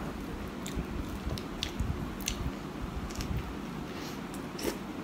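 Close-up chewing of a mouthful of chicken rendang sub with lettuce and tomato: wet, squishy mouth sounds with scattered sharp clicks, the strongest near the end.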